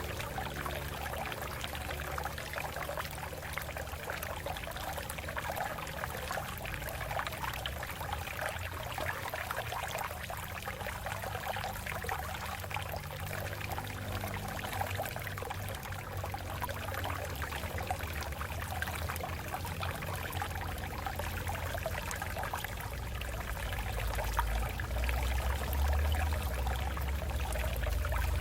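Water flowing and splashing over rocks, a steady rushing and trickling, with a low rumble underneath that grows louder near the end.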